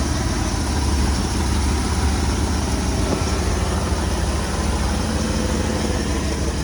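Ford 460 big-block V8 of a 1996 F-250 idling steadily with an even, low engine note.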